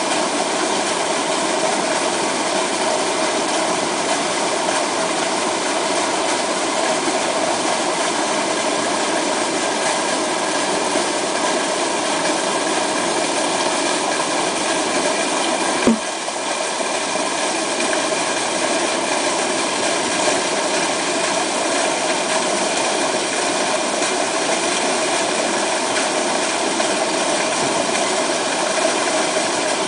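Waterfall pouring, a steady, even rush of falling water, with one sharp click about halfway through.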